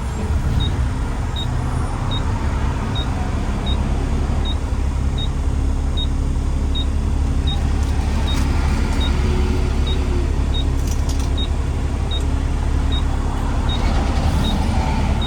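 Garbage truck engine running steadily on the road, a strong low drone with road noise. A short high pip repeats a little faster than once a second.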